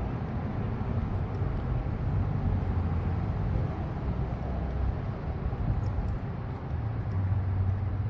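Steady low background rumble with no clear tool rhythm, and a few faint light clicks.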